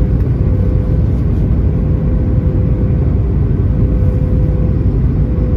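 Airbus A320 cabin noise in flight: a steady low rumble of the jet engines and airflow, with a constant mid-pitched hum running through it.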